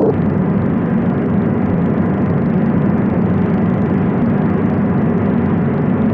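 Avro Shackleton's four piston engines droning steadily in flight.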